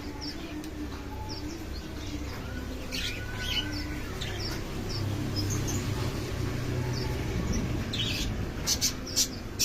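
Many small birds chirping in an aviary: short, high chirps scattered throughout, with a burst of louder, sharper calls near the end.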